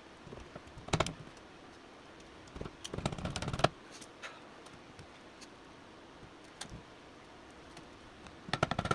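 Metal clicks and clatter of hand tools and engine parts being handled during engine teardown, in short bursts: one about a second in, a quick run of clicks around three seconds, and another near the end.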